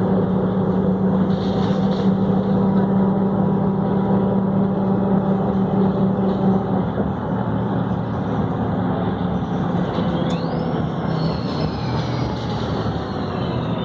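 Volvo B7RLE city bus's diesel engine running, its steady note shifting about halfway through. About ten seconds in, a high whine rises sharply, then slowly falls in pitch.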